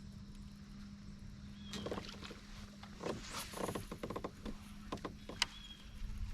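Scattered knocks, clicks and rustles of gear moving around in a fishing kayak, one sharper click about five seconds in, over a faint steady low hum, with a brief high chirp twice.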